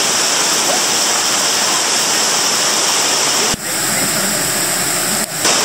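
Loud, steady rush of a waterfall's falling water, close to the microphone. About three and a half seconds in the sound briefly dips and its tone changes a little.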